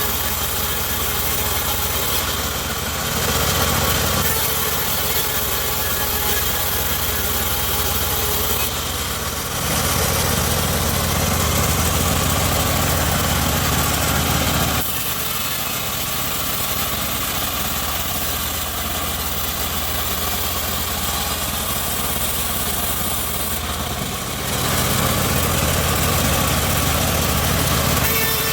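Homemade bandsaw sawmill running steadily while sawing teak, a constant machine drone that grows louder and heavier in stretches about 3 s in, from about 10 to 15 s, and again near the end.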